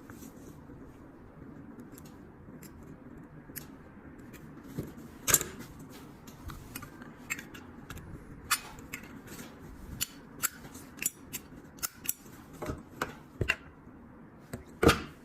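Irregular small clicks and light metallic taps of lighter parts being handled and fitted by hand, with a louder click about five seconds in and another near the end.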